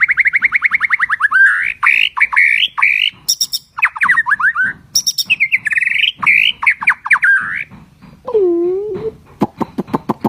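A songbird singing loud, fast trills and chattering phrases of rapidly repeated notes. About eight seconds in there is a lower, bending call, followed by a few sharp clicks.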